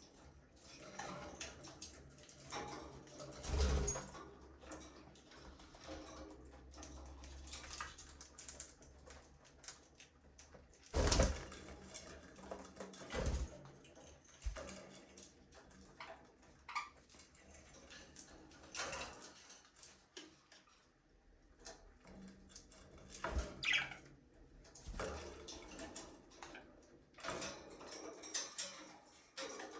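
Budgerigars chirping and chattering at intervals, with several sharp knocks, the loudest about 11 seconds in.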